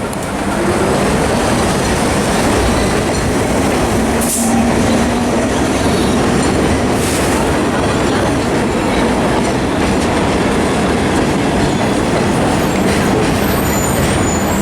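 Vintage New York City subway train running on the rails with a steady, loud rumble. Thin, high wheel squeal comes in near the end.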